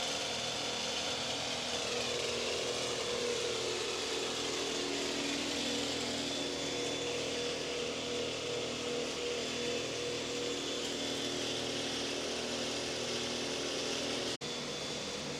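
Steady mechanical hum and hiss of background machinery, with a few faint held tones; it drops out briefly near the end.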